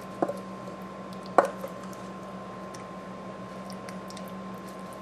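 Food being placed by hand onto a dish: soft squishy handling with two short clicks, about a quarter second in and about a second and a half in, over a steady hum.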